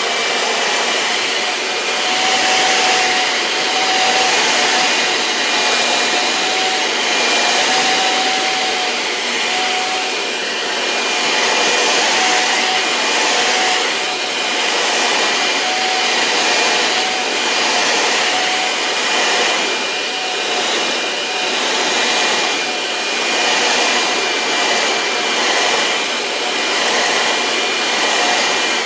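Vacuum cleaner running steadily, its motor making a rushing noise with a steady whine, the level swelling and easing slightly about every two seconds.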